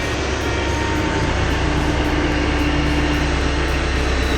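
A heavy construction machine's engine running steadily, a constant low hum with a steady tone above it.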